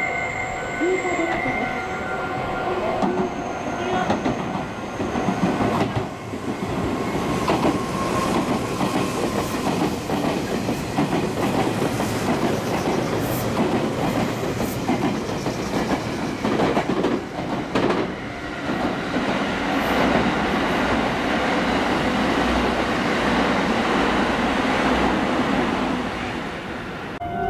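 Meitetsu electric train passing through a station at speed without stopping: a long rush of wheels on rail with a rapid clatter over the rail joints. It builds a few seconds in and dies away near the end.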